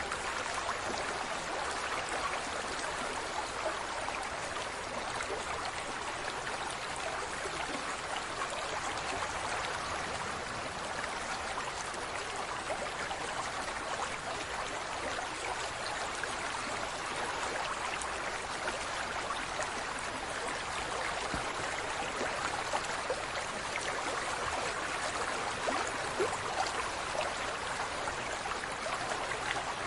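Steady rush of running water, like a stream, with a fine crackle of small droplets and no animal calls.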